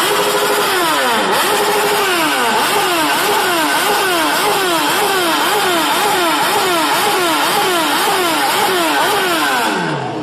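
High-powered motorcycle engine revved over and over, its pitch climbing and dropping about twice a second, then the revs falling away near the end.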